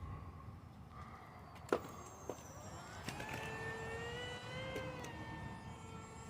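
Electric motor and propeller of an AeroScout S2 RC plane whining in flight. The pitch climbs slightly, then drops and fades after about five seconds, as if the plane passes and moves off. A sharp click comes just before, under two seconds in.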